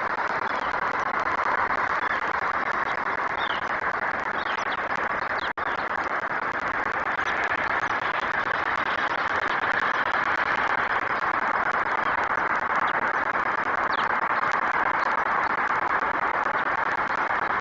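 Steady outdoor background hiss picked up by a webcam microphone, with a few faint, short, high bird chirps scattered through it. The sound drops out for a split second about five and a half seconds in.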